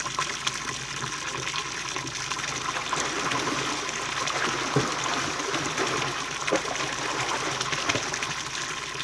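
Running stream water: a steady rush of flowing current.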